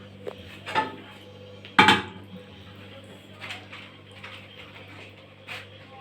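Cooking pot and utensils knocking and clinking while soup is poured over stuffed cabbage rolls, with one loud clank about two seconds in and a few lighter knocks after it. A steady low hum runs underneath.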